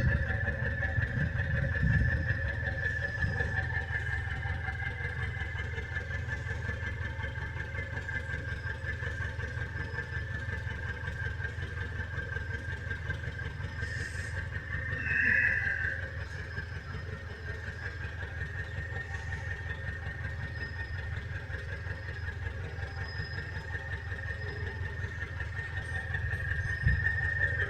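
Mitsubishi L200's 4D56U four-cylinder turbo-diesel engine idling steadily, with a steady high whine over the diesel running and a brief louder swell about fifteen seconds in.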